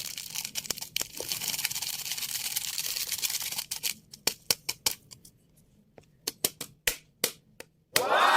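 Scratchy rustling and scraping for the first few seconds as coffee powder is spooned out. Then a run of separate sharp clicks and taps, like a spoon against a cup or bowl. Right at the end a loud call falling in pitch begins.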